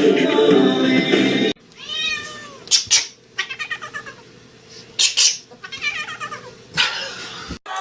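Background music that cuts off about one and a half seconds in, followed by a cat meowing several times, each meow a short call with pitch bending up and down.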